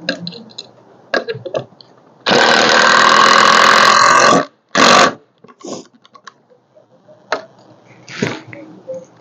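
Cordless power driver running screws into wood: one long buzzing run of about two seconds, then a short final burst to seat the screw, among light handling clicks and knocks.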